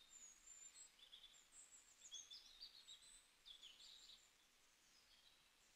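Faint bird chirping over near silence: a run of short, high chirps and trills through the first four seconds, then quieter.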